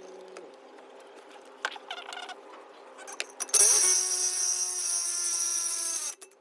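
A few light metallic clicks, then a power tool's motor spins up about three and a half seconds in and runs at a steady pitch with a hissing edge for about two and a half seconds before cutting off suddenly.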